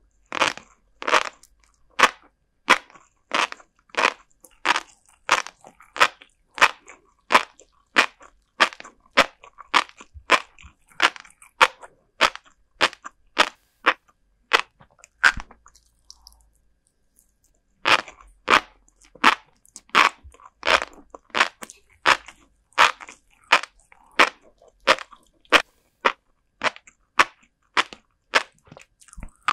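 A mouth chewing salted herring roe (kazunoko) with a crisp, crunchy bite, about one and a half chews a second. The chewing pauses for about three seconds around the middle, then starts again.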